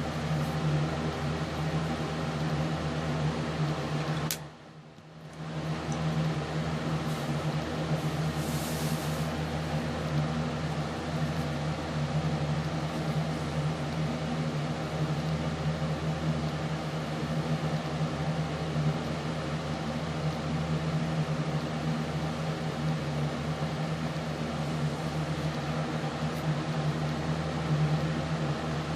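A steady machine hum with a low drone, like a fan or appliance motor. It drops out abruptly for about a second, then comes back unchanged.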